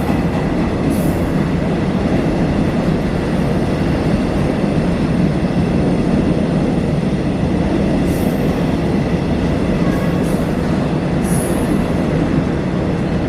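Train running at a station: a steady, loud rumble with several short high squeaks from the wheels.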